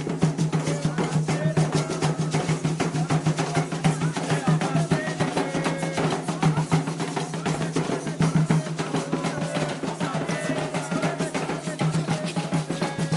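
Candomblé atabaque drums playing a fast, dense rhythm of rapid strikes without a break.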